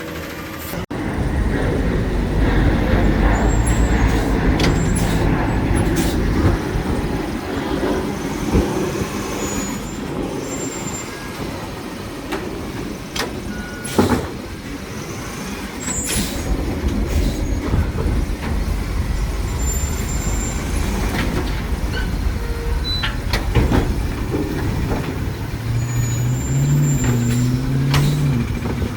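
Garbage truck at work: its engine runs loudly throughout, with sharp bangs and clanks every few seconds.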